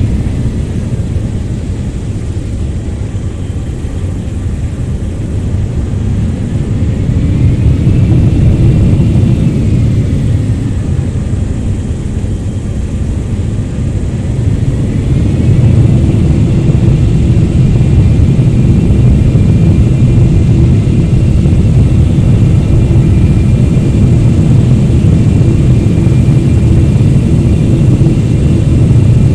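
Boeing 777-300ER's GE90 turbofan engines running at high power: a loud, deep jet rumble that swells and eases, with a higher whine that rises and falls, then holds steady from about halfway.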